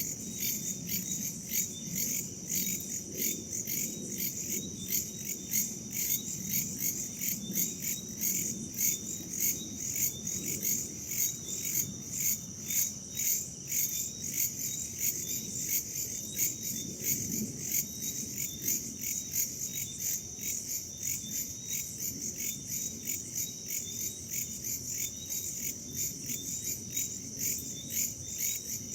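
Crickets and other insects chirping in a steady, pulsing chorus, with a low rush of wind beneath.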